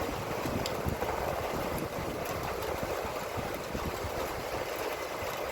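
Steady rain falling in strong wind, an even hiss with scattered faint ticks of drops and irregular low buffeting of wind on the microphone.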